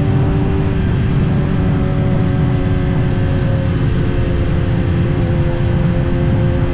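Kawasaki ZX-10R's inline-four engine running at a steady cruise, its pitch easing slightly lower, under heavy wind rumble on the action-camera microphone.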